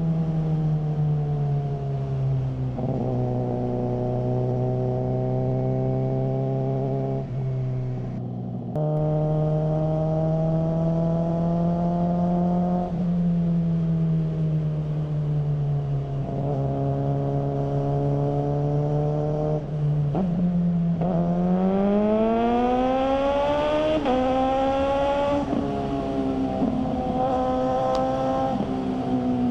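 Suzuki GSR600's inline-four engine running through a GPR Ghost aftermarket exhaust. The note holds at a middling pitch with several sudden drops, like upshifts, and a brief break about eight seconds in. It rises sharply in a hard acceleration about twenty seconds in, then holds high.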